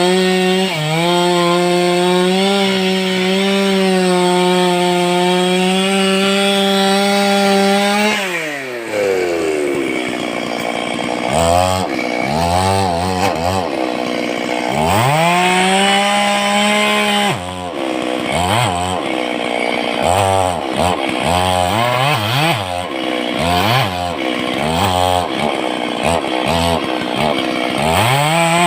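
Stihl chainsaw held at high revs for about eight seconds, then dropping back and revved again and again in short blips, with one longer rev partway through.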